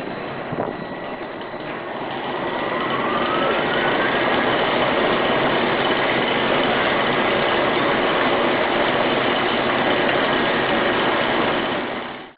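Roller coaster ride machinery running: a steady mechanical rush that builds over the first few seconds, with a whine rising in pitch as it builds, then holds steady and stops abruptly.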